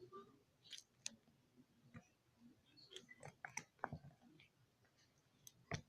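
Faint, irregular small clicks and taps from slime-making materials being handled and mixed, with a slightly louder click near the end.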